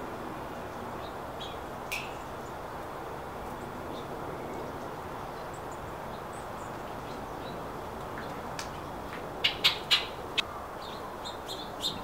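Small songbirds at a feeder giving short, sharp chips, with a quick run of four or five loud ones about three-quarters of the way through, over a steady background hiss.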